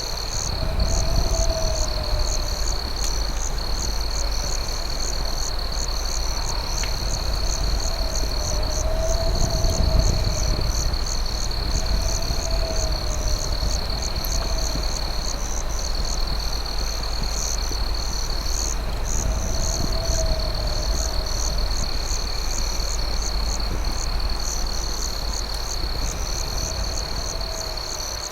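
Night insect chorus: crickets keep up a steady high trill and fast, even chirping. A lower call that rises and falls repeats every two to three seconds, all over a steady low rumble.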